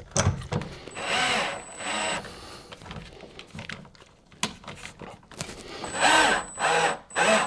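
Cordless drill/driver driving screws into wood in a series of short trigger bursts, the motor pitch rising and falling with each squeeze. The bursts come about a second in, near two seconds, and several more close together in the last two seconds.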